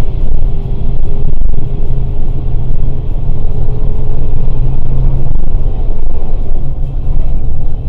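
Scania K410 bus on the move: a loud, steady low rumble of engine and road, with a faint held tone running through it.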